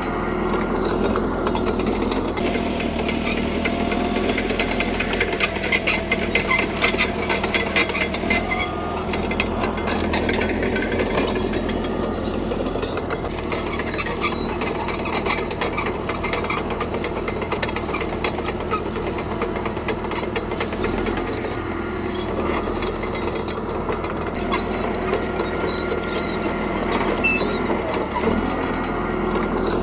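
CAT D3K crawler bulldozer's diesel engine running steadily under work, with the steel tracks clanking and squeaking in a fast, even clatter as the machine moves.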